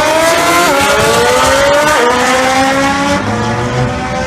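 Drag motorcycle engine at full throttle down the strip. Its pitch climbs steadily, with sharp drops at upshifts about a second and two seconds in, then holds and fades a little as the bike pulls away.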